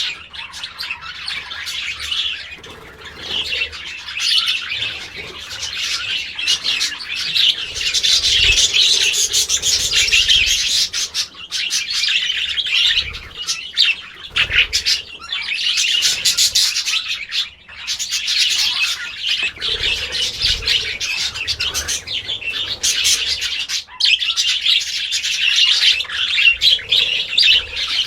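Many small birds chirping and chattering at once in a dense, continuous chorus of quick high notes that swells and eases in waves.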